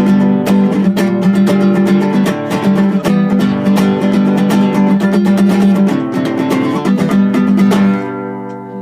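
Acoustic guitar strummed in a steady rhythm; about eight seconds in the strumming stops and the last chord rings out and fades.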